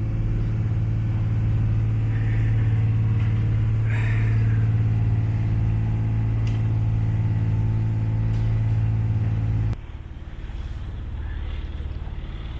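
Tour boat's engine running with a steady drone, then the drone stops abruptly near the end, leaving a lower rumble.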